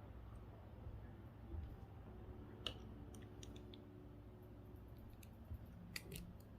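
Faint, scattered small clicks and taps of hand tools and parts on a GPS unit's circuit board as it is taken apart, over a low steady hum.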